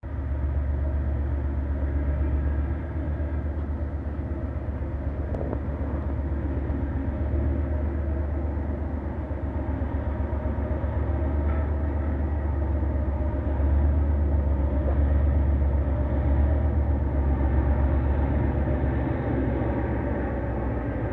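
Steady low rumble of diesel locomotive 7905 drawing in with its freight train, mixed with wind buffeting the microphone under a storm front. The rumble swells a little about two-thirds of the way through.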